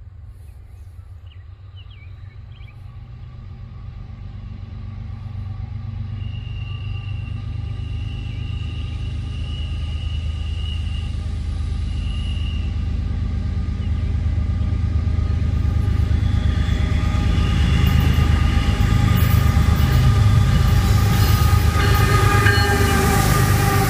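Diesel freight train approaching, its locomotive rumble growing steadily louder throughout, with steady whining tones above it. In the last few seconds the rattle of wheels on the rails builds up as it nears.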